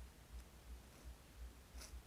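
Near silence: faint room tone with soft low thuds about two or three times a second and a single short click a little before the end.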